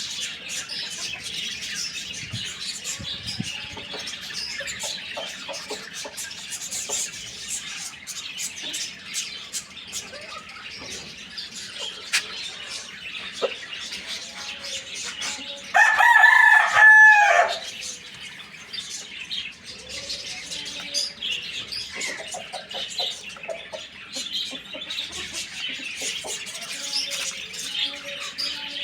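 A rooster crows once, loud and about a second and a half long, a little past halfway, over constant chirping of small birds and some low clucking.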